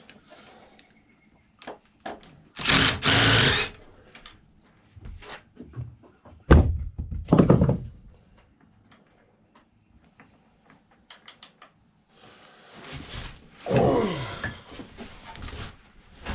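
Thuds, knocks and clatter of tools and motorcycle parts being handled, with a hard thud about six and a half seconds in and short rushing noises around it.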